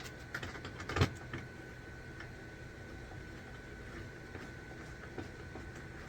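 Light clicks and knocks of hand tools and hardware being handled, with one louder knock about a second in, over a faint steady high whine.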